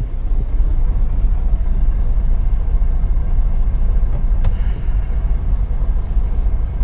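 Steady low rumble of an idling semi-truck diesel engine heard from inside the cab, with a single brief click about four and a half seconds in.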